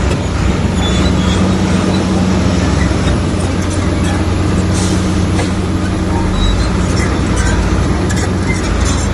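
A Komatsu bulldozer's diesel engine runs steadily under work, a constant low drone, with a few sharp metallic clanks scattered through it.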